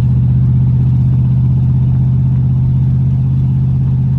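1983 Chevrolet Caprice engine running at a steady idle, with no exhaust-leak ticking to be heard: the leak at the exhaust manifold is fixed.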